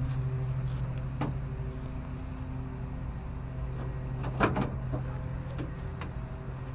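A small engine running steadily, with a few short knocks over it, the loudest about four and a half seconds in.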